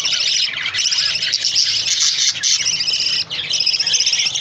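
Many small pet cage birds chirping and chattering together in a dense, continuous chorus, with a brief lull about three seconds in.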